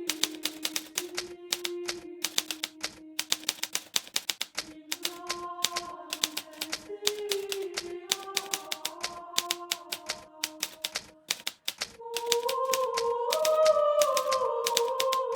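Hermes Baby portable manual typewriter typing: keys striking in quick, irregular strokes with a brief pause about eleven seconds in. Slow background music of held, stepping notes plays under it and swells louder near the end.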